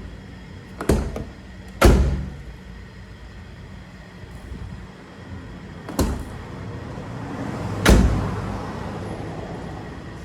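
Hyundai HB20 car door being shut twice, each time a lighter clunk followed about a second or two later by a louder slam as the door latches. The door lock has just been lubricated with WD-40 and is closing better.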